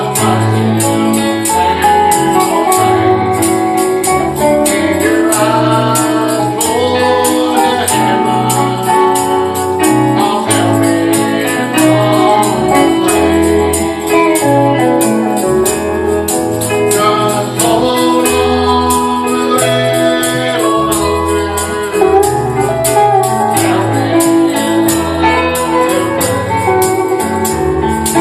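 Live gospel music with singing, a bass line and chords, and a tambourine jingling on a steady beat.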